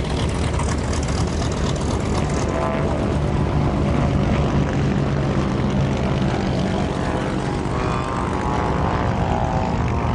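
Northrop N-9MB flying wing passing overhead, its two Franklin air-cooled piston engines driving pusher propellers in a steady drone that swells toward the middle of the pass.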